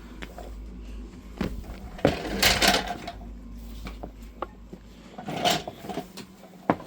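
Handling noises: scattered knocks and clicks, with a rustling scrape about two seconds in and again about five and a half seconds in, and a sharp click near the end.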